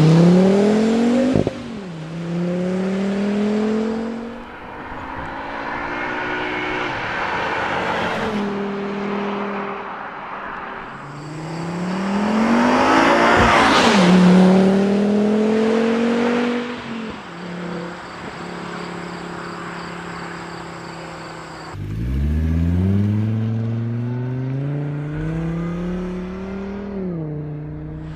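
Volvo V70 R's turbocharged 2.5-litre five-cylinder engine and exhaust pulling hard under acceleration. Its pitch climbs and then drops sharply at each upshift, about three times.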